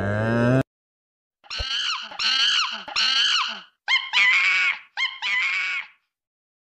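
A deep call rising in pitch breaks off suddenly in the first moment. Then a monkey calls: a string of high, arching calls, three evenly spaced and then two quick double calls.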